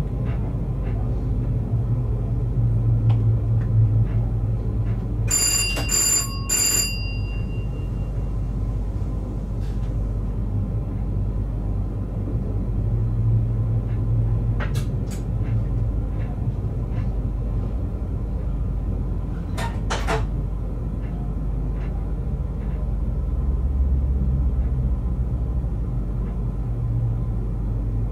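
Steady low rumble and hum of an electric train running on the rails, heard inside the driver's cab. About five seconds in, a bright bell-like chime rings twice, its tones hanging on for a moment. A few short clicks follow later.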